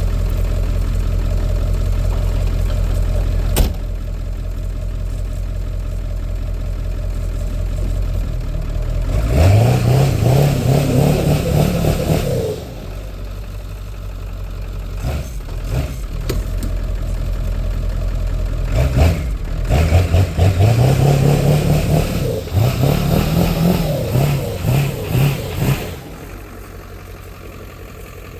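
Ford 7.3 Powerstroke turbo-diesel V8 idling, then revving up twice in long rising pulls, the second one wavering up and down, before dropping back to a quieter idle near the end. A single sharp click comes about three and a half seconds in.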